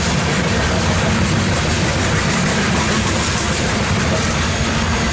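CSX coal hopper cars of a freight train rolling past close by, with a steady, loud rumble and rattle of steel wheels on the rails.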